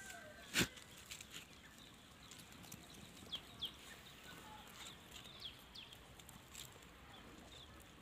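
Faint outdoor ambience with one sharp click about half a second in, followed by scattered short, high chirps of small birds.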